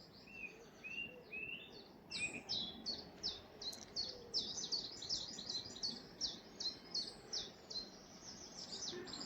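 Songbird singing: a few short notes at first, then from about two seconds in a long, fast run of high notes, each sweeping downward, about five a second.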